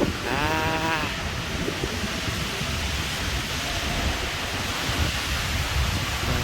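Steady rain and wind noise, with gusts buffeting the microphone. A brief voice-like sound comes about half a second in.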